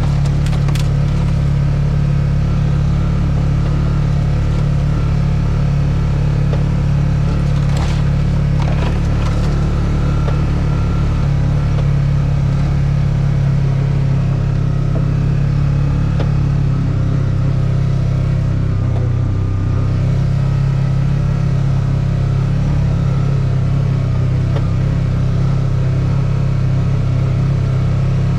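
A small vehicle's motor running steadily at an even speed, a loud, constant low hum, with a few brief knocks about eight to nine seconds in.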